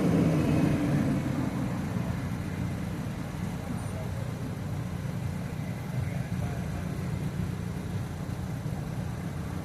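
Mini bike engine running steadily while riding, easing a little quieter over the first couple of seconds.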